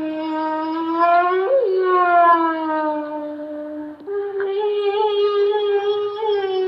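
Canine howling: two long, drawn-out howls, the first holding nearly level for about four seconds, the second starting right after and sliding down in pitch near the end.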